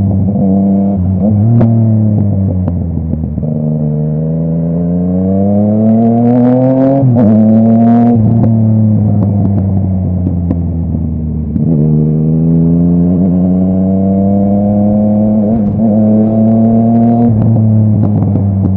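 Yamaha MT-09's three-cylinder engine running through a full Akrapovic exhaust under riding load. It rises in pitch as it accelerates, with abrupt pitch changes at gear shifts about seven and twelve seconds in, and a few sharp crackles from the exhaust near the middle.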